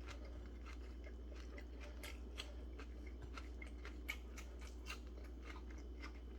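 A person chewing a chicken sandwich with the mouth close to the microphone, with scattered short wet clicks over a steady low hum.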